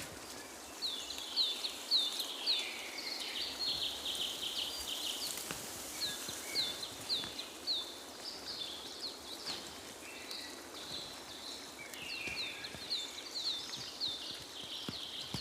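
Several birds singing together, with runs of short, high chirps that slur downward and a denser buzzy trill about three seconds in.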